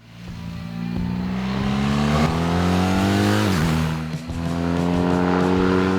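BMW R 1300 GS boxer-twin engine through a REMUS exhaust, accelerating: the pitch climbs steadily, drops at a gear change about three and a half seconds in, then climbs again.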